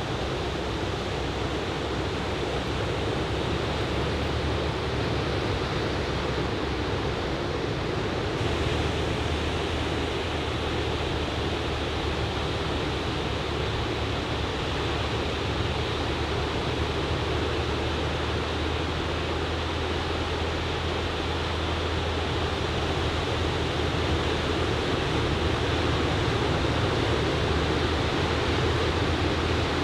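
Ocean surf breaking and washing in as a steady rush of noise, the waves about waist-to-belly high from typhoon swell.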